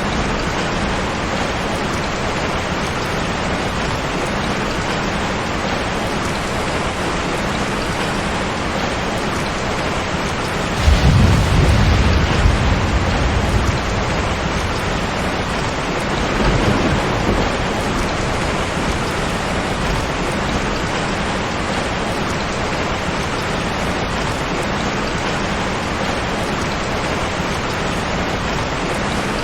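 Steady rain with thunder: a loud rumble of thunder about a third of the way in that swells and dies away over about three seconds, then a fainter rumble a few seconds later.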